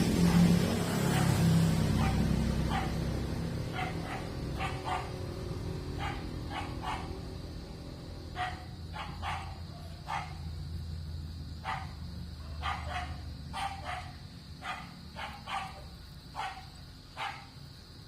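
A dog barking repeatedly, short sharp barks coming in irregular runs of two or three, over a steady faint hiss and low hum. A broad rushing noise at the start dies away over the first few seconds.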